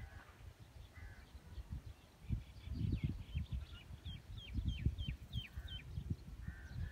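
Birds calling: a few short calls, then about four seconds in a quick run of around seven downward-sliding whistled notes. Wind rumbles in gusts on the microphone underneath.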